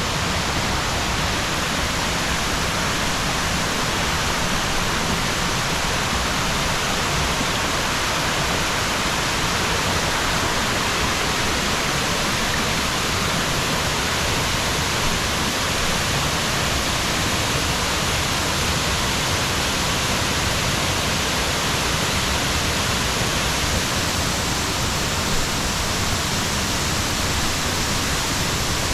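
A waterfall rushing steadily: a dense, even hiss of falling water with no break or change.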